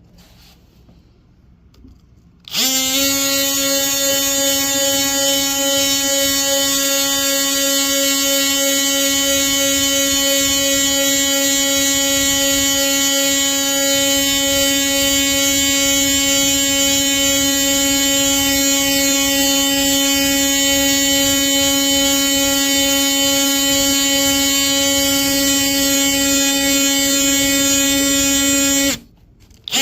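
Dewalt 20-volt brushless oscillating tool with a sanding head and 120-grit paper, sanding dried glue off wood: it starts about two and a half seconds in, runs at a steady buzz, and stops just before the end.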